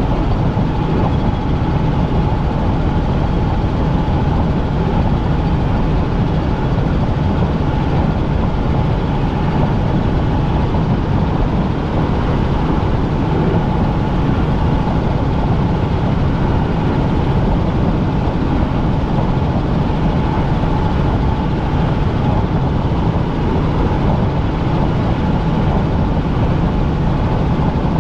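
Helicopter engine and rotor noise heard inside the cabin: a loud, steady drone with a constant thin whine above it.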